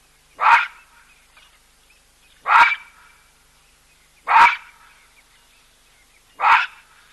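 A baboon giving loud, short barking calls, four of them about two seconds apart.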